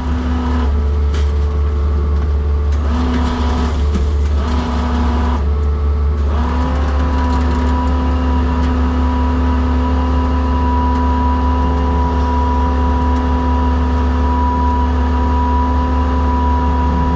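Skid steer engine running under load with a steady pitched whine from its hydraulic winch attachment as it pulls. The whine cuts in and out a few times, then holds steady from about six seconds in.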